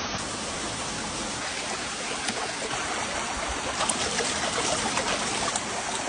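Steady rushing and trickling of a stream's running water, with a few faint clicks.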